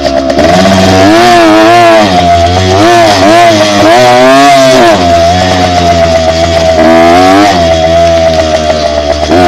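Dirt bike engine being ridden, the revs climbing and dropping several times as the throttle is opened and closed, with steadier running in between.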